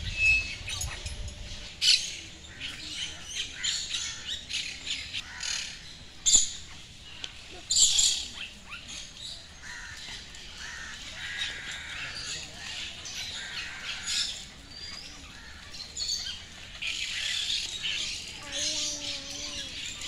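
Aviary birds calling: a running mix of sharp chirps and squawks, with a few louder calls about 2, 6 and 8 seconds in.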